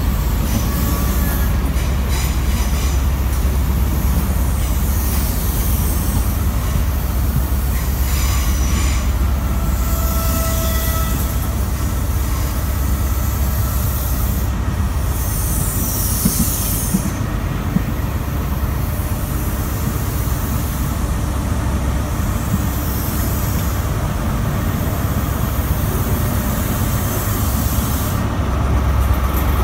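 High Speed Train coaches rolling past along the platform: a steady rumble of wheels on rail, with a few brief, thin wheel squeals, most of them around a third of the way in.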